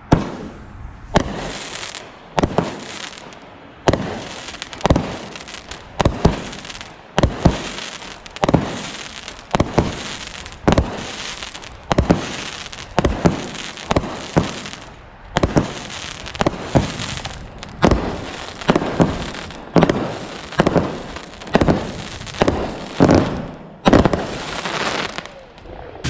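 A 200-gram consumer fireworks cake firing, one shot about every half second to one second, each shot a sharp launch or burst followed by crackling.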